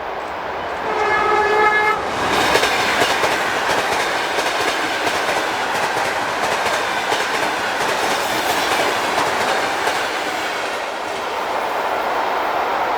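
A passing train sounds one horn blast of about a second. Its noise then swells into a loud, steady rush of a train going by at speed, with wheels clattering over the rail joints.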